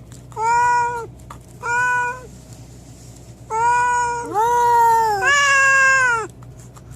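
Cat meowing in long, drawn-out calls: five of them, each about a second, the last three running almost together.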